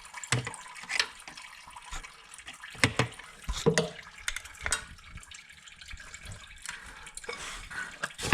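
Engine coolant trickling out of the radiator drain, with a few sharp clicks and knocks from work on the plastic clips and cover nearby.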